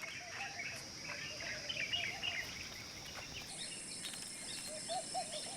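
Jungle ambience: a steady high-pitched insect drone with many small bird chirps and calls scattered through it. About three and a half seconds in, a second, higher-pitched insect drone joins.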